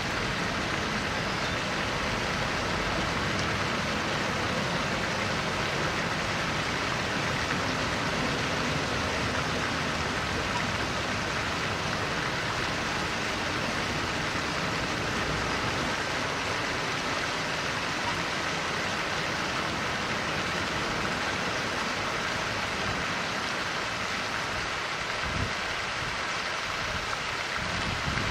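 Steady rushing noise of water, even and unbroken, with no distinct bird calls standing out.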